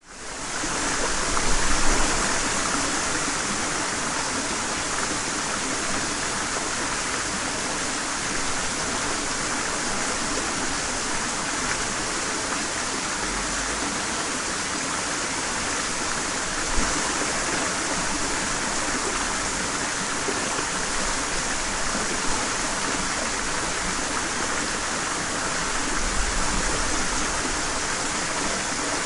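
Stream water flowing steadily over rocks, a continuous rushing and babbling.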